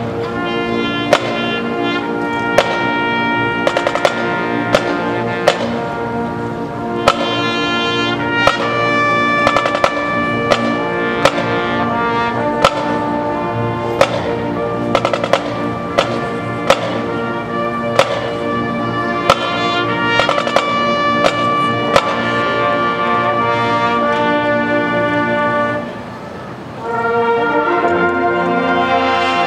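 Marching band brass playing slow, held chords over regular sharp drum hits, with a brief drop in volume near the end before the full band comes back in.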